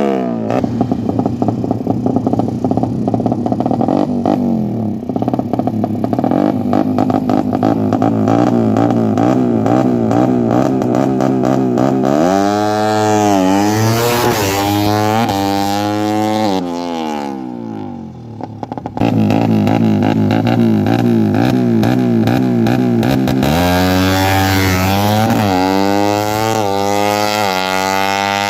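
Suzuki Satria FU motorcycle engine, bored up to 155 cc, running through a Fantera aftermarket exhaust while being tuned. It holds a steady fast idle, is revved up and back down about halfway through, dips briefly, then settles and is revved up again near the end.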